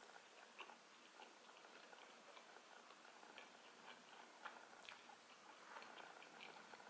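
Faint close-up chewing of a mouthful of cheesy deep-dish pizza, with small, irregular wet mouth clicks.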